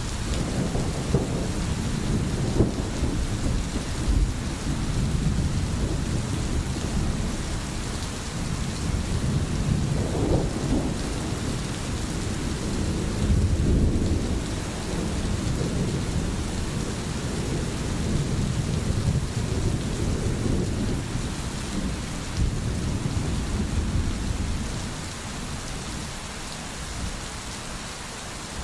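Steady rain hissing, with a low rolling rumble of thunder underneath that dies away near the end.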